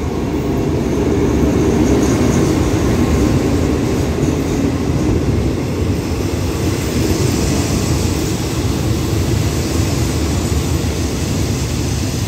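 Diesel locomotive and passenger coaches of an express train rolling past close by as it pulls in to stop at the station: a steady rumble of engine and wheels on the rails. It is loudest about two seconds in, as the locomotive passes, and the coaches keep rolling by after it.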